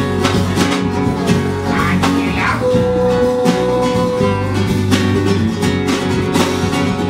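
Live band playing an instrumental passage led by guitar, with a steady beat and one long held note about a third of the way in.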